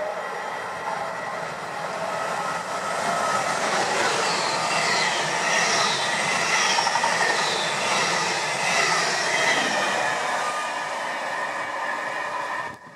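ICE high-speed train passing close by at speed: a steady rush of wheels on rails with a faint whine, building to its loudest midway and easing off.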